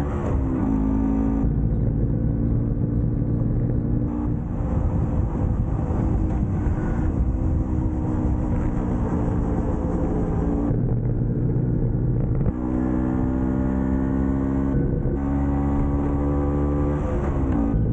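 Vespa PX scooter's two-stroke single-cylinder engine running under way. Its pitch drops sharply right at the start and again near the end, and holds fairly steady in between.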